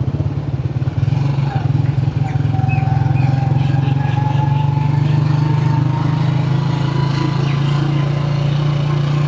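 Motorcycle engine running steadily under way, with a fast even pulsing and a faint higher tone that slowly rises in pitch from about two seconds in.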